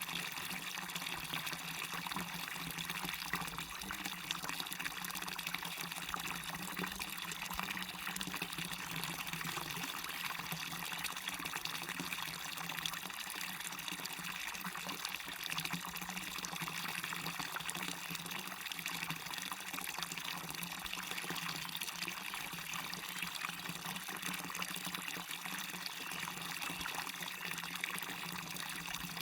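Small waterfall on a stream, water falling and running in a steady, unbroken rush.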